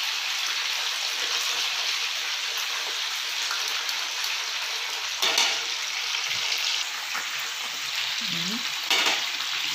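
Chicken pieces frying in hot oil in a pan, a steady sizzle, with two brief sharp sounds about five seconds in and near the end.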